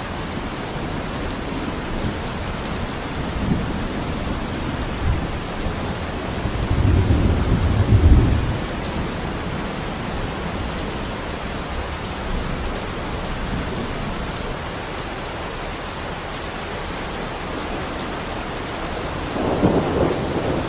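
Steady heavy rain hissing, with thunder rumbling twice: a louder, longer roll about seven seconds in and a shorter one near the end.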